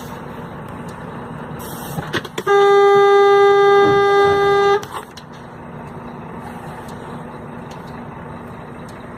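A vehicle horn sounds one long, steady blast of about two seconds, a couple of seconds in, over a steady rumble of engines and traffic.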